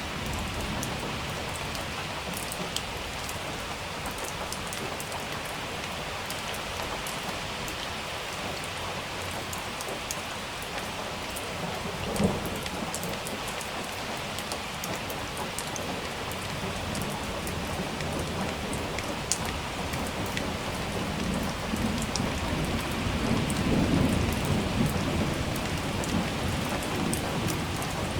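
Steady rain falling, with a short sharp thunderclap about twelve seconds in and a low rumble of thunder that swells in the second half and slowly fades.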